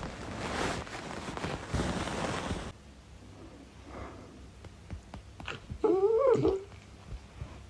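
A pet's single drawn-out call, rising and then falling in pitch, about two-thirds of the way in. It follows a few seconds of noisy rustling that stops abruptly.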